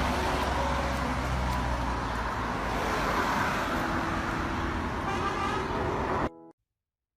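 Street traffic noise, a steady din of passing cars, that cuts off suddenly about six seconds in and leaves silence.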